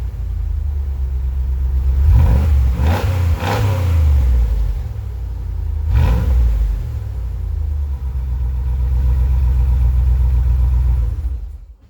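Straight-piped 2007 Trailblazer SS 6.0-litre V8 running cold, blipped three times in quick succession about two seconds in and once more about six seconds in, settling back to a loud rumbling idle between revs. The engine sound cuts off just before the end.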